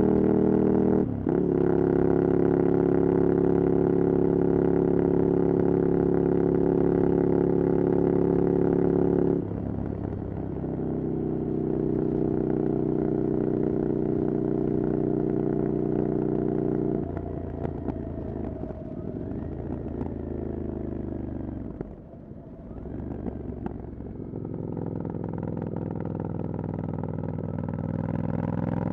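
Ducati Scrambler Desert Sled's air-cooled V-twin through a LeoVince exhaust with the dB killer removed, ridden at steady revs with a quick break about a second in. The revs drop in steps around nine and seventeen seconds in and nearly fall away around twenty-two seconds, then the engine pulls up again toward the end.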